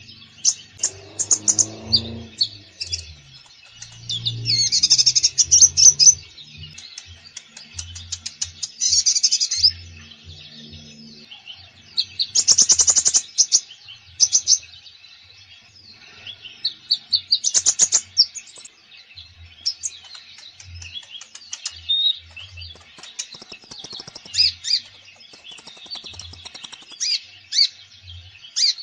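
Konin songbird singing a long, varied song of rapid chirps and trills in bursts with short pauses between phrases, the full-repertoire song that keepers play to train other konin birds to sing.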